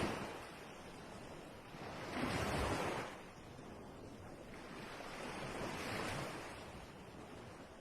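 Sea waves washing in, with a noise that swells twice: once about two seconds in and again around six seconds.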